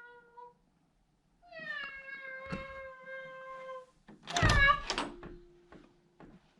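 A woman imitating a cat: a drawn-out meow that slides down and holds, then a louder, sharper cat-like cry with a thump about four seconds in, and a short low hum after it.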